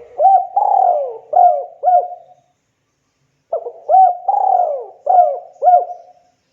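Spotted dove cooing: two phrases of several low coos each. The first ends about two and a half seconds in, and the second starts about a second later.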